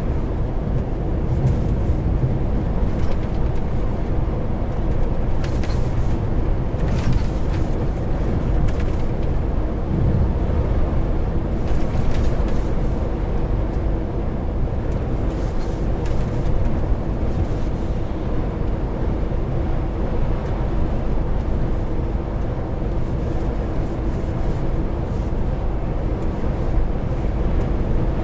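Truck's diesel engine running steadily, heard from inside the cab, with road and tyre noise and a few short knocks scattered through.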